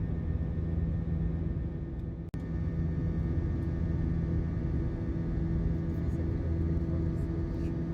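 Steady cabin rumble of an Airbus A321 in flight: engine and airflow drone with several steady low hums. It cuts out for an instant about two seconds in, then resumes unchanged.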